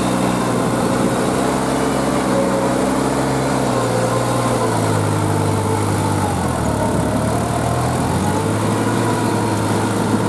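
Kubota L3408 tractor's three-cylinder diesel engine running steadily while puddling with a rotavator, its pitch dipping and then rising again around the middle as engine speed changes.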